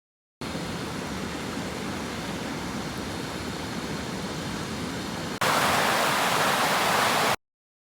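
Steady rushing of flowing river water, in two clips. The first is moderate; about five seconds in it cuts abruptly to a louder, brighter rush that stops suddenly.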